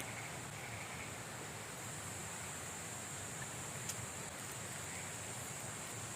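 Steady outdoor rushing noise of a forest river and wind, even throughout, with a single faint click about four seconds in.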